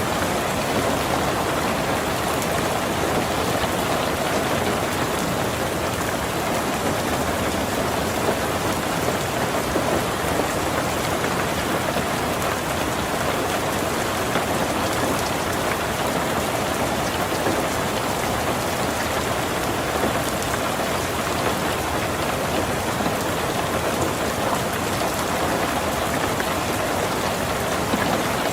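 Heavy rain drumming steadily on a tin roof, a dense unbroken patter of drops.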